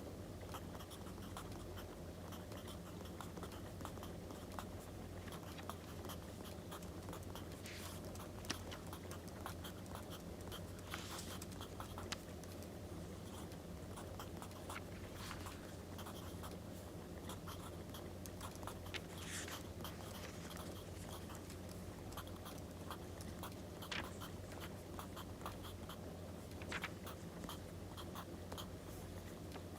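Writing on paper: faint scratchy pen strokes and small ticks, with a longer paper rustle every few seconds, over a steady crackling firewood sound.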